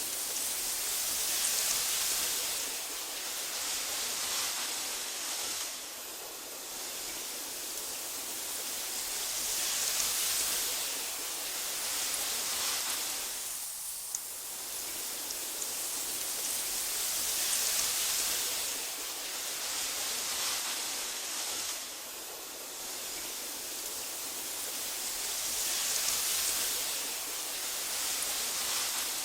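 Wind blowing through tall meadow grass: a steady hiss that swells and eases in slow gusts about every eight seconds.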